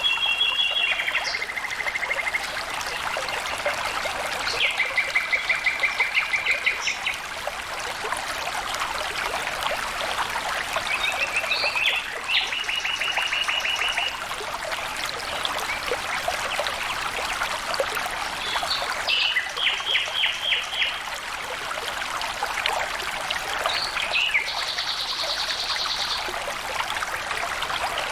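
Flowing stream water trickling steadily, with a bird singing short, rapid trilled phrases every few seconds over it.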